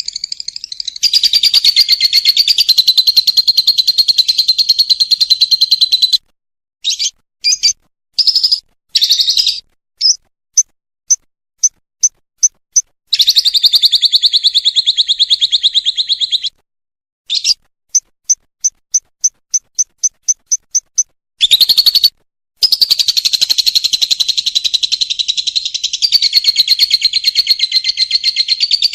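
Lovebird singing its long rapid chattering trill (ngekek), held for several seconds at a time, with runs of short, evenly spaced chirps in the pauses between trills.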